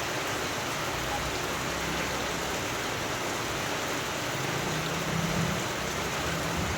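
Steady rain falling, an even hiss, with a faint low rumble swelling about five seconds in.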